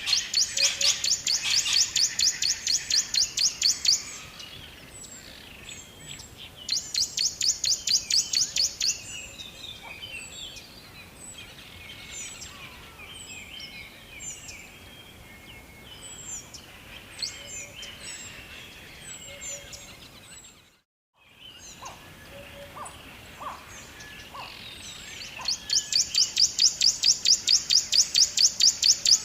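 Songbirds chirping: several birds calling at once, one giving fast runs of repeated high chirps, about six a second, in three spells of a few seconds each, with scattered short calls from others in between. The sound cuts out entirely for a moment about three-quarters of the way through.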